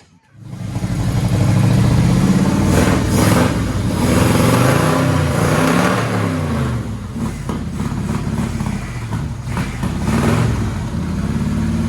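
Drag-car 350 V8 starting up and running loudly, revved up and down several times in short blips between a lumpy idle.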